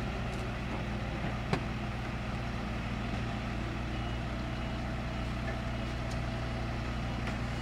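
Scania P114 truck's diesel engine idling steadily, with a single sharp click about a second and a half in and faint, repeated high beeping in the second half.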